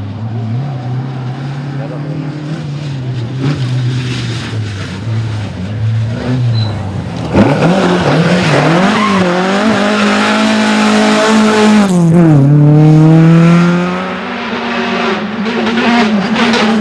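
Rally car engine at full throttle: a steadier, quieter engine note for the first half, then about seven seconds in it becomes sharply louder and closer, its pitch rising and dropping repeatedly as it is revved hard and shifted through the gears.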